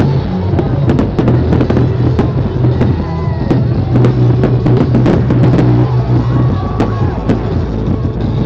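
Fireworks going off in quick succession, many sharp bangs and crackles, over loud music with a steady bass line.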